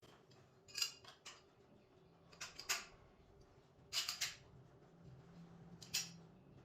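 A few short, light metallic clinks and taps, spread out with gaps between them, over a faint steady hum.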